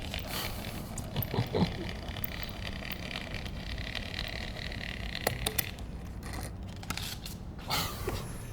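Faint scraping and scattered clicks of small objects being handled, over a steady low hiss.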